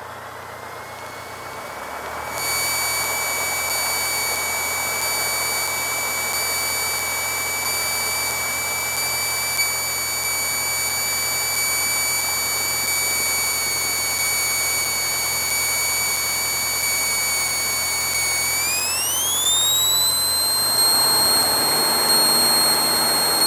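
Cessna 152's four-cylinder Lycoming engine running in the cockpit, heard through the headset/intercom feed with a steady high-pitched whine over the engine hum. Near the end the whine glides sharply up in pitch and the engine note changes as the throttle is opened for the takeoff roll.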